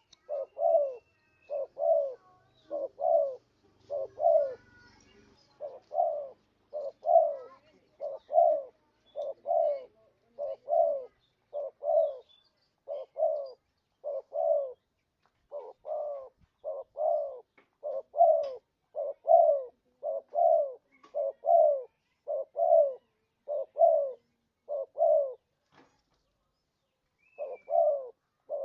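Spotted dove cooing: a long series of short, low coos at about two a second, broken by a brief pause near the end. It is a lure call for attracting spotted doves.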